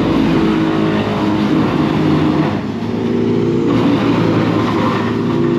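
Diesel engine of heavy tree-removal machinery running loudly, its pitch stepping up and down several times as it works.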